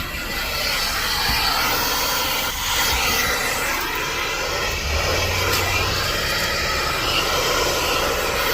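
Car wash vacuum hose sucking, a loud steady rushing noise whose tone drifts up and down as the nozzle moves.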